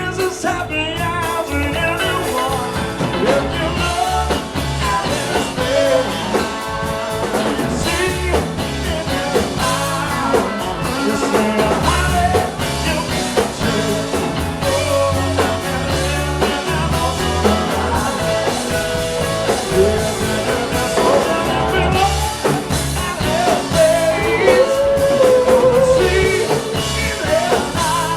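Live blues-rock band playing: drums, bass and keyboards under a lead line that bends in pitch.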